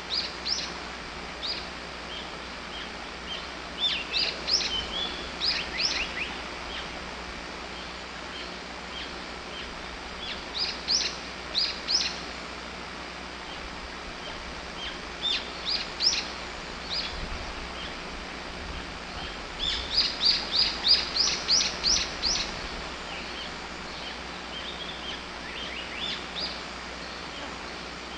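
Wild birds singing in short phrases of high, quickly falling notes, repeated every few seconds over a steady outdoor hiss. The longest phrase, a fast run of about eight notes, comes about two-thirds of the way through.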